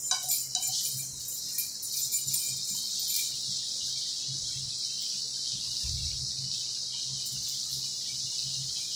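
Stuffed croissants frying in melted buttery spread in a skillet: a steady high sizzle, with a few light crackles in the first second.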